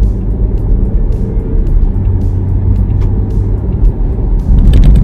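Steady low rumble of a car's engine and road noise heard from inside the cabin, with music playing.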